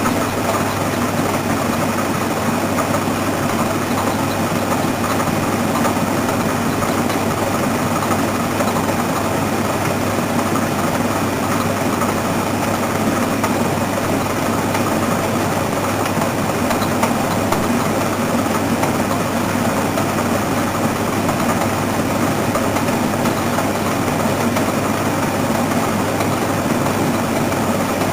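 Washing machine running steadily under PLC control: continuous motor and drum noise with a steady low hum.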